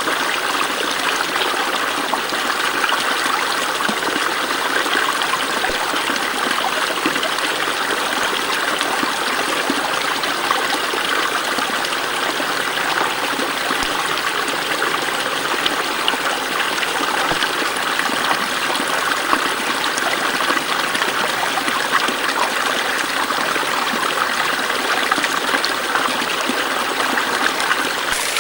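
A small stream running steadily, an even rush and trickle of flowing water with no pauses.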